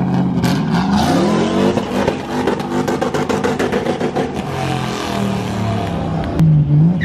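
A modified car's engine revving up and down repeatedly as it pulls away, with a rapid crackle running through the middle. A louder engine note comes in near the end.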